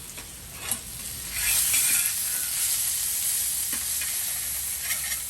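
Food frying in hot oil in a pan, with a light clink under a second in and the sizzle swelling up loudly about a second and a half in as the food takes the heat.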